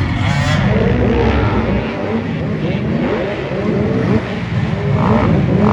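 Several motocross race engines running together, their pitches rising and falling over one another as they rev and shift, with a sharper climb near the end.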